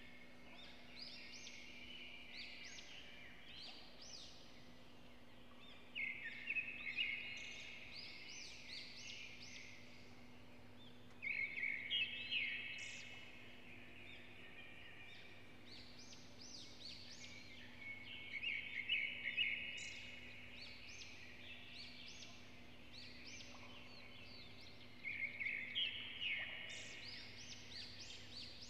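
A songbird singing short phrases of quick chirping notes, one phrase every five to seven seconds, over a steady low hum.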